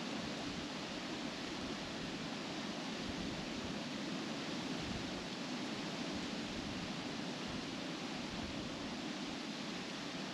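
Wind blowing steadily through trees, the leaves rustling in an even, continuous wash of noise.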